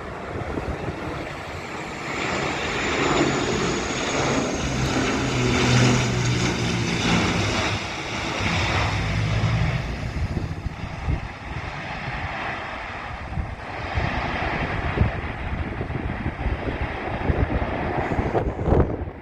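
ATR 72-500 turboprop airliner on landing, its twin Pratt & Whitney PW127 engines and propellers giving a low drone that swells loudest for several seconds and then fades, with gusty wind buffeting the microphone.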